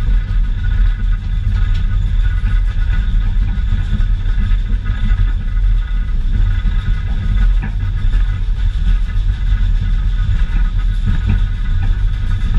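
Heritage railway passenger car rolling along the track behind a steam locomotive: a steady, loud low rumble of wheels on rails, heard from an open-sided car.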